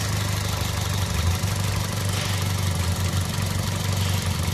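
Toyota 1ZZ-FE 1.8-litre inline-four engine idling steadily.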